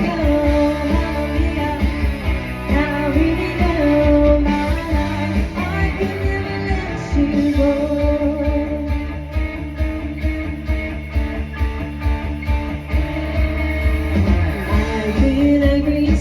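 Live band playing a song: a singer's voice over guitar, a strong bass line and a steady beat.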